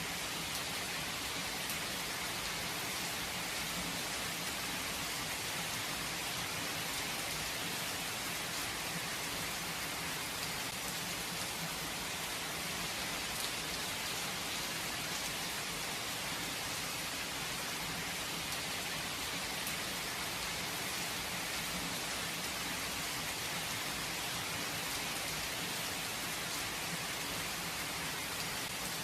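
Steady rain falling and pattering on surfaces, an even hiss with scattered drop sounds and no thunder.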